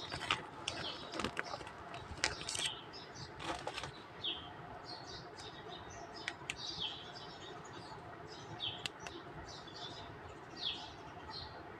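Light clicks and taps of small plastic toy figures being handled during the first few seconds, then small birds chirping again and again in short, quick notes.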